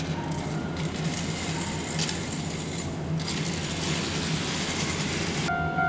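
Keihan electric train at a station platform: a steady low rumble with metallic rattling and a stretch of hissing in the middle. About five and a half seconds in, the hiss stops and a station chime's steady tones begin.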